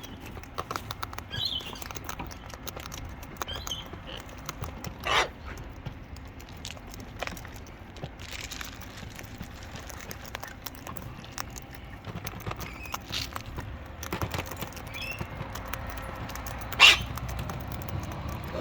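Cockatoos feeding at close range: a steady run of small clicks and crackles as they peck and crack seed, with a few faint short chirps and two brief sharp calls, one about five seconds in and a louder one near the end.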